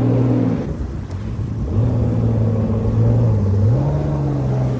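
Jet ski engine running: it eases off about half a second in, picks up again near two seconds, and steps up in pitch around four seconds in as the throttle opens.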